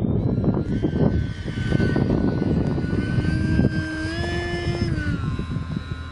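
Whine of an RC plane's Turnigy NTM 3530 brushless outrunner motor and 10x6 propeller in flight, its pitch rising slightly and then dropping about five seconds in. Wind buffets the microphone underneath.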